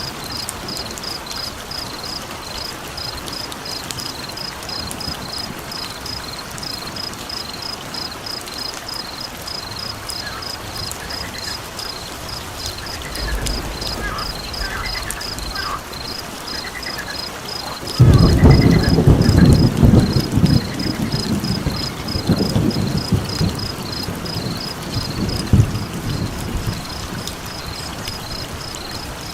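Layered nature ambience: a steady hiss of rain under an insect-like high chirp repeating in an even fast pulse. A few short calls come through in the middle, then a loud rumble of thunder breaks in suddenly about two-thirds of the way through and dies away over several seconds.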